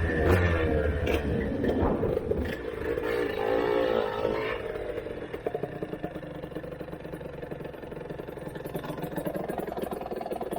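Aprilia Tuono 125's single-cylinder two-stroke engine, breathing through a TYGA expansion-chamber exhaust. Its revs fall as the bike slows, rise and fall briefly around four seconds in, then it runs on at low revs that pick up a little near the end.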